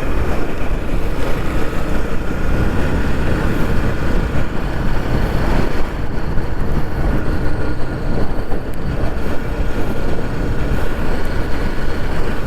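Motorcycle on the move: a steady, loud rush of road and wind noise with engine sound underneath, and a faint steady whine over it.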